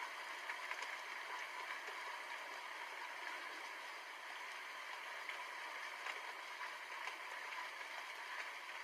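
Steady rain falling: an even hiss with many faint ticks of individual drops.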